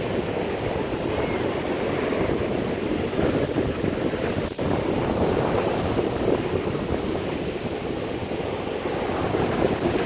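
Strong hurricane wind buffeting the microphone, with ocean surf breaking beneath it. The rush is steady apart from a brief drop about halfway through.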